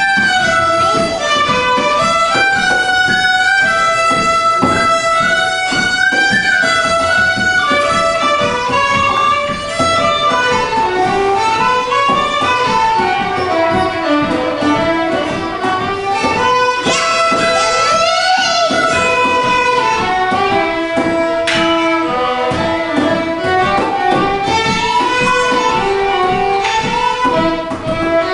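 Fiddle playing an Irish traditional tune at a lively pace, a continuous run of quick melody notes, with plucked-string accompaniment underneath.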